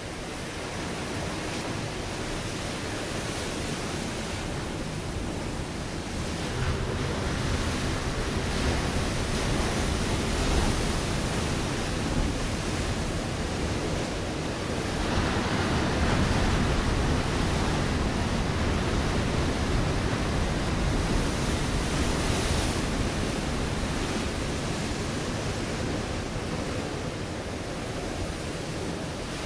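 Ocean waves breaking on a rocky shore: a steady wash of surf that swells louder twice, about a quarter of the way in and again through the middle.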